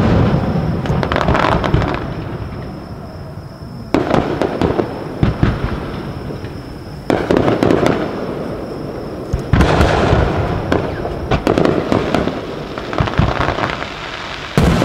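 Aerial firework shells bursting close overhead: a series of sudden booms every few seconds, each trailed by seconds of crackling from the falling stars.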